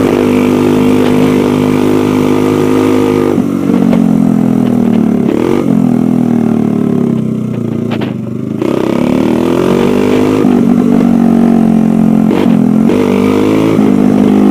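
Dirt bike engine running under way, its pitch falling and climbing again several times as the throttle is rolled off and back on. About halfway through the engine note sinks lowest and quietens briefly, then rises back up.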